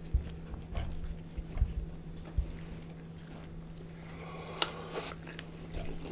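Close-miked eating: biting and chewing food, with scattered wet mouth clicks and a sharper click about four and a half seconds in. A faint steady hum runs underneath.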